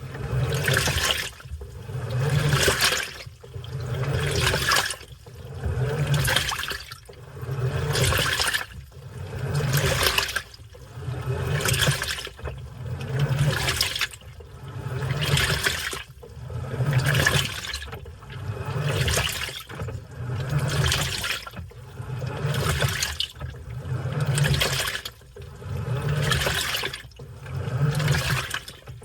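Washing machine in its wash cycle, water sloshing and swishing in regular surges about every two seconds as the drum or agitator turns back and forth.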